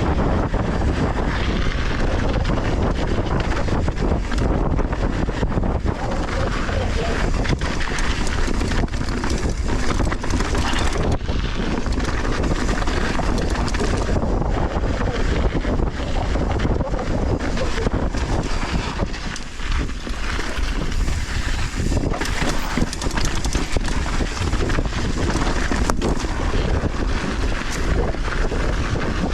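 Wind buffeting a GoPro action camera's microphone on a downhill mountain bike ride, over the steady noise of knobby tyres rolling on loose dirt and the bike rattling on bumps. The noise is constant, with many small knocks and a short lull about two-thirds of the way through.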